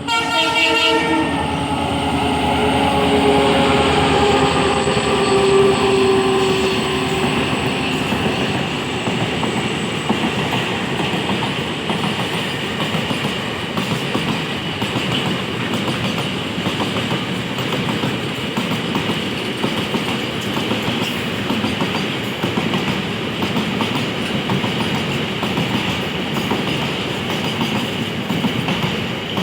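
WDG-4 (EMD GT46MAC) diesel-electric locomotive going by with a double-decker train, its pitched sound sinking slightly and fading over the first several seconds. Then comes a steady rumble and clickety-clack of the coaches passing on the rails.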